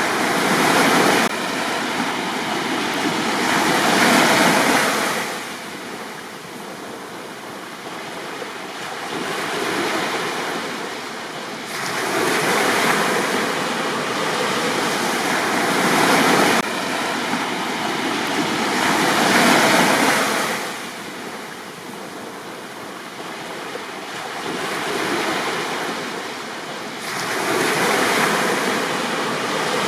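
Small sea waves breaking and washing up a beach, the surf swelling and ebbing about eight times in half a minute.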